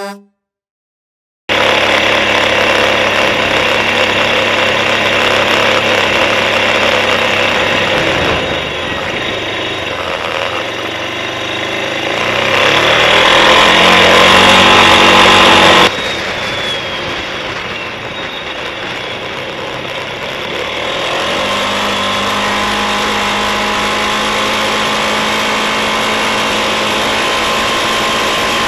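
Suzuki KingQuad ATV engine running under way, its pitch and load shifting with the throttle. It swells to its loudest in the middle, drops off suddenly about two thirds of the way through, then runs on at a steady level.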